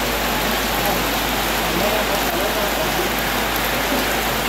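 Heavy rain pouring down in a steady, even hiss over wet ground and standing floodwater.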